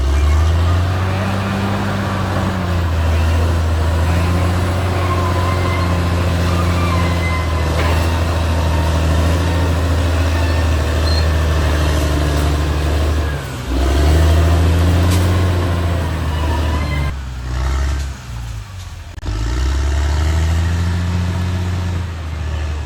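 Caterpillar D6R XL bulldozer's diesel engine working steadily under load. Its pitch and level dip briefly about two-thirds of the way through, then drop for a couple of seconds before it pulls back up to working revs near the end.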